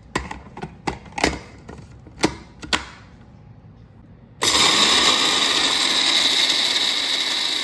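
A few clicks and knocks of handling, then about four seconds in a coffee grinder switches on abruptly and runs steadily and loudly, grinding coffee.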